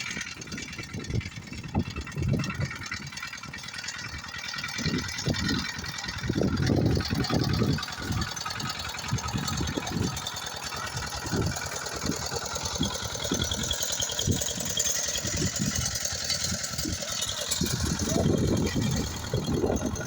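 Irregular rattling and low knocks from work on a walking tractor's engine, with no steady running rhythm.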